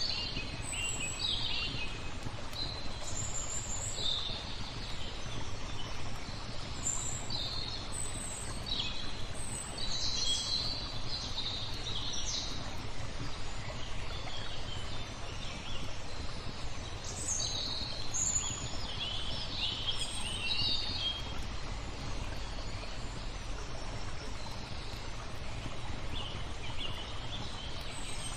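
Small songbirds chirping and twittering in short, high calls, scattered all through, over a steady rush of flowing water.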